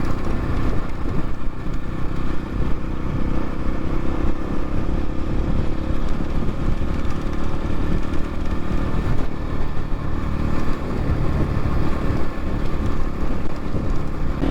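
X-Pro Templar X 250 dirt bike engine running steadily while riding along a dirt road.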